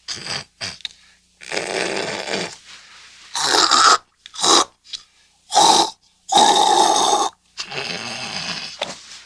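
A man loudly snorting, hawking and clearing his throat and nose in a string of about eight bursts, some short and some over a second long. He is clearing his pipes so that he won't snore.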